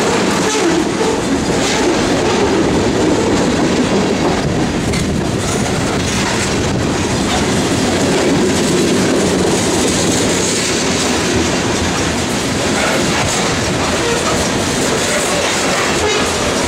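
Freight cars of a grain train rolling past: a steady rumble of wheels on rail, with the clickety-clack of wheels passing over rail joints.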